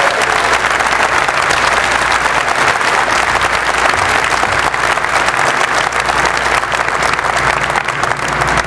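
Crowd applauding steadily, a dense mass of hand claps.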